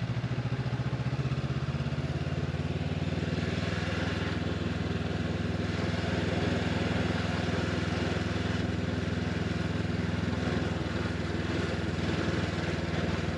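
Honda motorcycle's engine running steadily at an even speed.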